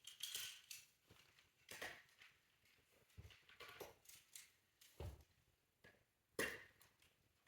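Faint, scattered clicks and knocks of small toy pieces being handled and set in place, about half a dozen, the loudest about six and a half seconds in.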